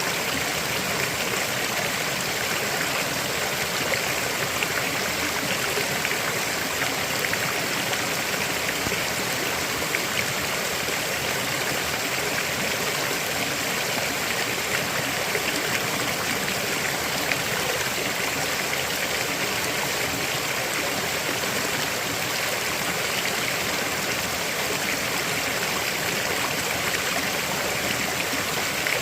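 River water flowing and splashing over rocks: a steady, even rush with a slight trickling.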